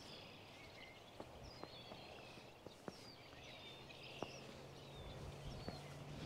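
Faint outdoor ambience of small birds chirping and twittering, with a few scattered soft clicks and a low steady hum that grows slightly in the second half.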